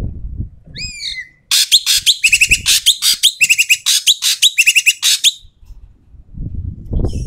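Ekek keling bird calling loudly: a few falling whistled notes, then about four seconds of rapid, harsh chattering calls with repeated high notes. Low thumps at the start and near the end.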